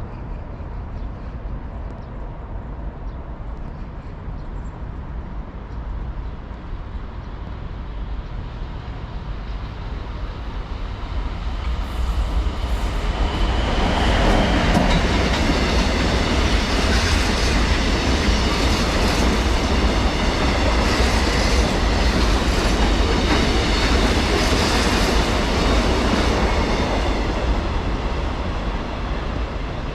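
A train passing on the rails: a low rumble grows over the first dozen seconds, then the wheels clatter loudly over the rail joints for about fifteen seconds before easing slightly near the end.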